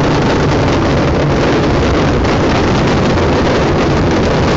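Fireworks finale barrage: many shells bursting in quick succession, their reports running together into a loud, continuous din.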